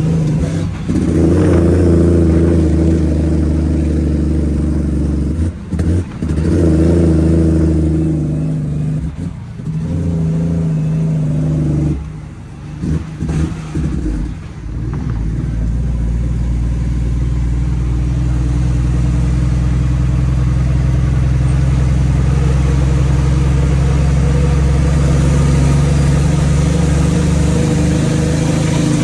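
Straight-piped Cummins ISX inline-six diesel pulling under load, its note dropping out briefly several times in the first half as with gear changes on the 18-speed transmission, then settling into a steady drone.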